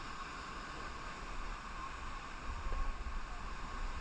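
Steady rush of a waterfall cascade pouring into a rock pool, with a low rumble underneath that swells briefly about two and a half seconds in.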